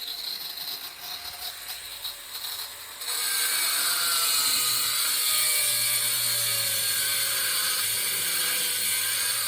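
Angle grinder with a diamond blade grinding a round hole through tile for a shower tap, the blade tilted further and further into the cut. It runs quieter for about the first three seconds, then cuts loudly and steadily with a faint wavering whine.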